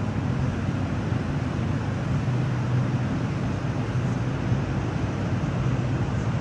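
Moscow metro train noise: a steady low rumble and hiss with a constant low hum.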